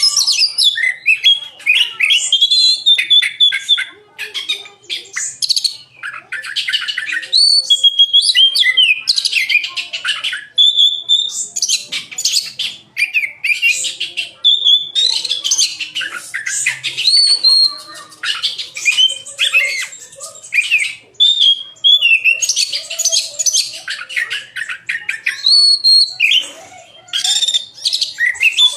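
Oriental magpie-robin (kacer) singing nonstop in full song: a rapid, varied run of clear whistles, trills and chattering phrases. The song is packed with fill-in phrases copied from other birds' songs.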